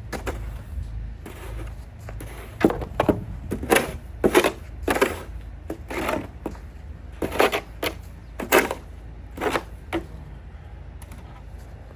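Snow shovel scraping and knocking across porch stairs in a run of short strokes, about a dozen between roughly two and ten seconds in.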